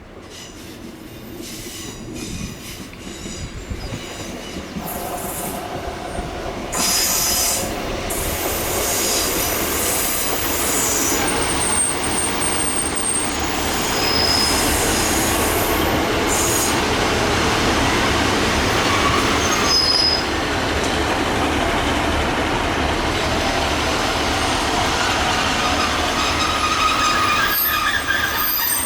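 A train approaches and runs past close by, growing louder over the first few seconds. It then rumbles loudly, with brief high-pitched wheel squeals coming and going and some rhythmic clatter over the rail joints.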